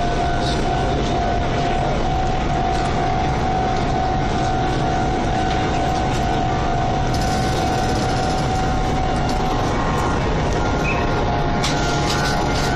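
Meitetsu train running past, a dense, steady rumble with a steady whine that stops about ten seconds in.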